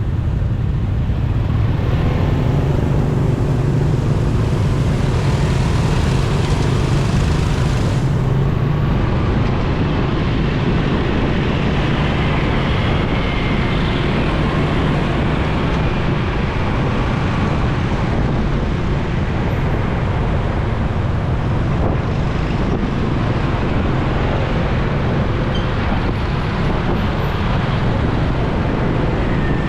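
Motorcycle riding steadily through traffic: its engine running at a constant pace with wind and road noise, and other vehicles around it.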